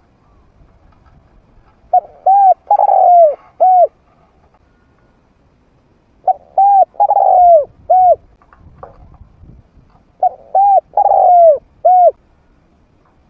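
Spotted dove cooing: three phrases of a few short coos around one longer, falling coo, repeated every four seconds or so.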